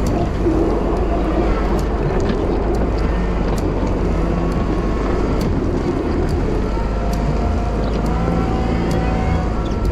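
Wheel loader engine running steadily under load while plowing snow, with scattered light ticks over the rumble.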